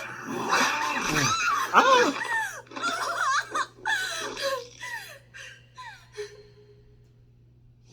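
A person laughing in a run of voiced bursts with swooping pitch, tailing off about six seconds in.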